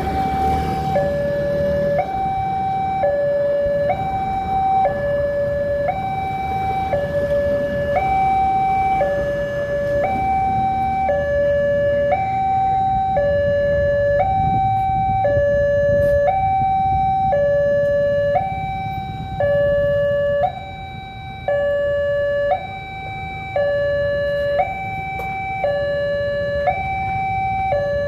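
Electronic two-tone warning alarm of a railway level crossing, alternating evenly between a low and a high tone, each held about a second, signalling that a train is approaching. A low rumble of traffic runs underneath.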